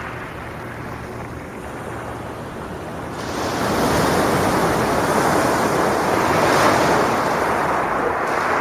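Sea waves breaking on the shore: a steady rush of surf that swells about three seconds in as a wave breaks and washes up, then eases a little near the end.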